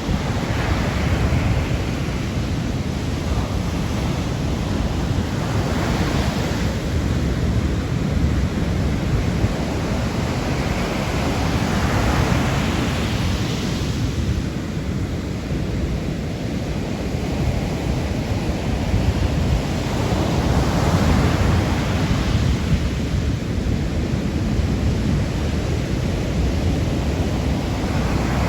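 Sea waves washing onto the shore, one swell every several seconds, over a steady low rumble of wind on the microphone.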